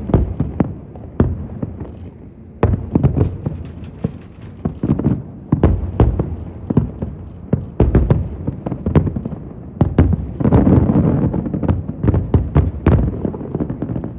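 Fireworks display: aerial shells bursting in a rapid string of bangs and low booms, with a denser run of bursts about ten seconds in.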